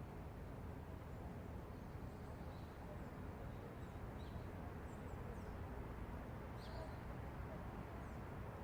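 Steady low city rumble, like distant traffic, with a few short, high bird chirps scattered through it.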